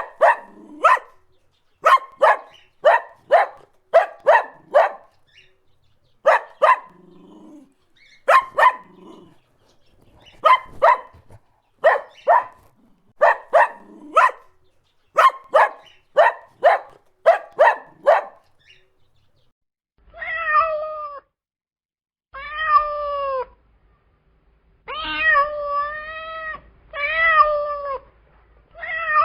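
Animal calls: for the first eighteen seconds or so, short sharp yaps in quick groups of two to five. From about twenty seconds in, five drawn-out, wavering pitched calls follow, each about a second long.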